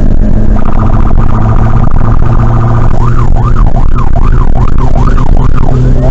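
Electronic emergency-vehicle siren on a responding car, loud and close: a fast pulsing tone for the first few seconds, then switching to a rapid up-and-down yelp of about two sweeps a second, with a slower rising wail starting at the end. A steady low engine drone runs underneath.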